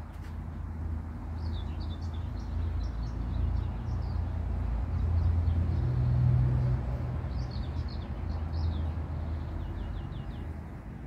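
Small birds chirping in quick short phrases, twice, over a steady low rumble that swells to its loudest about halfway through and then eases off.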